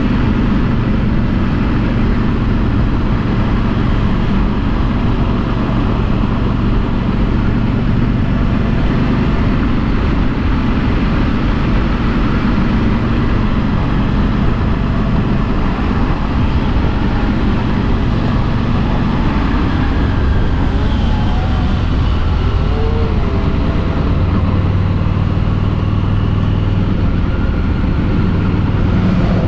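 A Harley-Davidson Street 500's V-twin engine running through its stock exhaust while the bike is ridden at a steady pace, mixed with wind and road noise.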